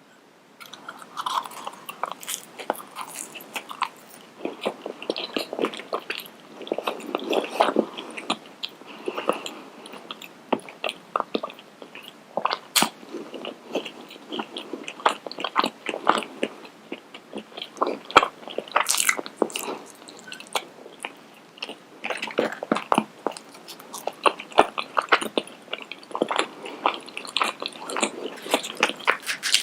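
Close-miked chewing and biting of food, a dense run of crisp crunches and crackles with softer wet chewing between them.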